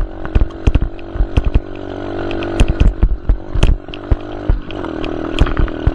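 Dirt bike engine running, its pitch shifting a few times, with many sharp knocks and clicks throughout.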